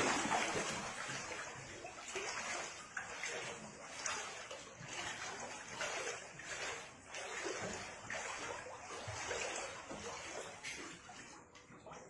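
Water splashing and sloshing in shallow floodwater, in repeated bursts about once a second after a sharp splash at the start.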